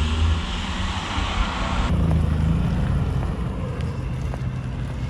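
A car engine running with a low, steady rumble, with wind buffeting the microphone. The higher hiss cuts off suddenly about two seconds in.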